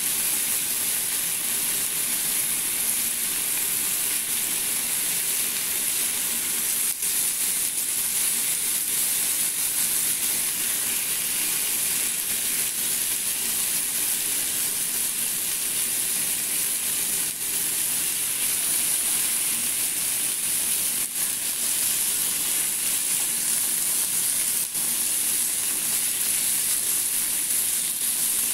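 Chicken breasts sizzling steadily in oil in a nonstick frying pan, with a few light clicks of metal tongs as the pieces are turned.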